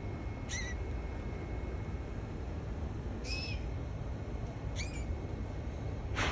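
Canary giving a few short, separate chirps spaced a second or two apart rather than a continuous song. A sharp click near the end, louder than the chirps, and a steady low background hum.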